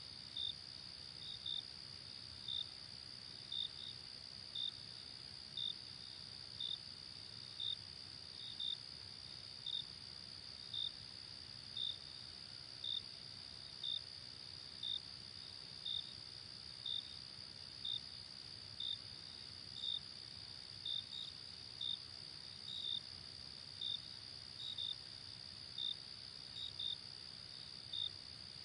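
Night insect chorus: a steady high-pitched trill, with a single chirp repeating about once a second and now and then doubled.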